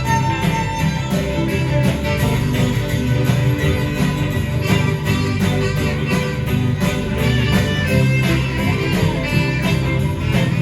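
Live band playing loud amplified music with a steady drum beat, an instrumental passage without singing.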